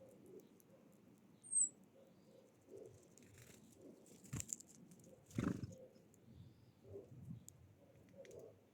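A single short, high bird chirp about one and a half seconds in, dropping slightly in pitch. Faint scattered ticks and two brief rustles come around the middle.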